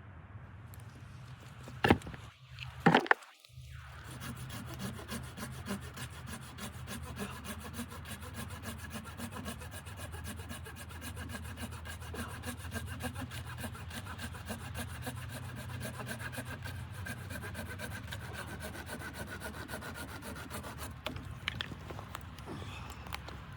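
Two sharp knocks, then a saw cutting through wood with steady, rapid rasping strokes.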